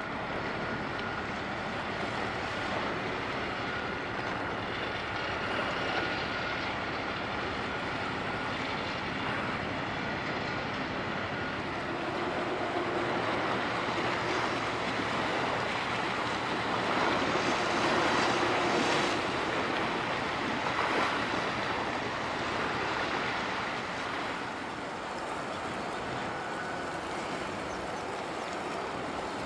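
Steady wash of wind and water noise with faint steady hums as a large bulk carrier sails past, growing a little louder around the middle.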